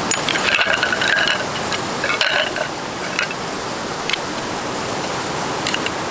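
A steady rushing background noise with scattered clicks and short clattering sounds, most of them in the first second and a half and around two seconds in, like hard camp gear being handled.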